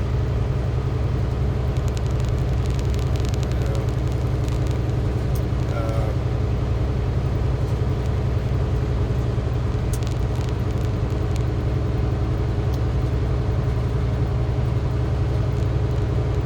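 Semi-truck cab while driving: the engine and road make a steady low drone that does not change.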